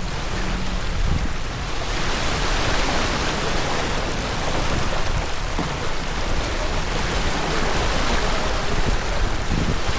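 Steady rush of water along a sailing boat's hull, with wind noise on the microphone. The hiss grows fuller about two seconds in.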